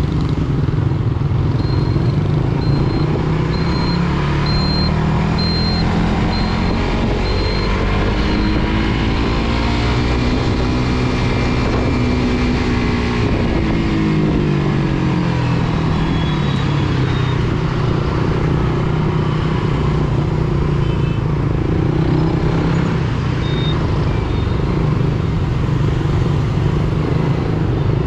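Suzuki GSX-R150 single-cylinder engine under way in traffic, with wind rushing over the microphone. Its pitch climbs steadily for about ten seconds, holds, then drops a few seconds later as the bike slows. A short high beep repeats for several seconds near the start.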